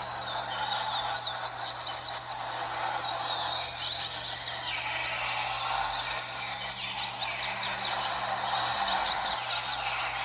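Many double-collared seedeaters (coleiros) singing at once, their quick, high chirping phrases overlapping without pause, over a steady background hiss and a low hum.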